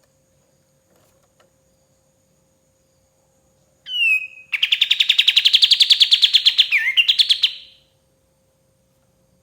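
A kapas tembak (a bulbul) sings one phrase about four seconds in: a short falling whistle, then a fast, even trill of about eight notes a second that runs for roughly three seconds and breaks off with a few quick notes. A faint steady hum lies underneath.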